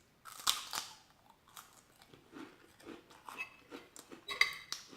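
A person chewing food close to the microphone, with wet mouth clicks and smacks. There is a louder burst of chewing about half a second in and another cluster of smacks near the end.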